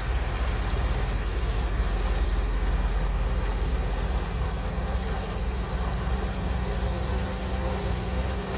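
Shantui DH17C3 Pro bulldozer's diesel engine running steadily with a low drone.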